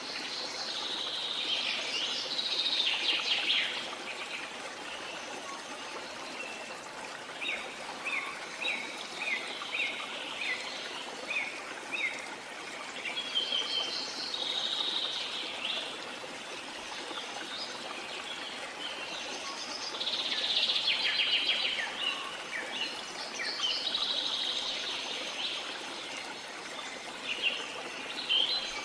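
Several birds singing and calling in bursts over the steady rush of a flowing stream, with a run of about half a dozen short repeated chirps in the middle.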